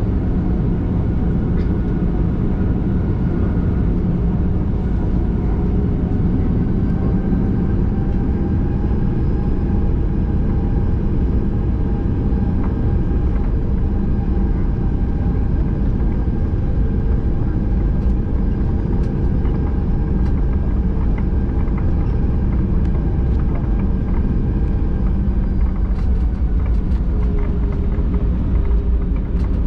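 Boeing 737-800 cabin noise heard from a window seat: a steady low rumble with a constant hum from the CFM56 engines running at idle, typical of the aircraft taxiing after landing.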